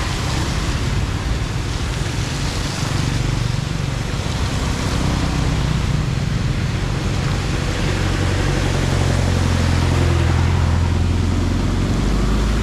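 Floodwater rushing down into a storm drain, a steady loud wash of water, with a low rumble that swells in the second half.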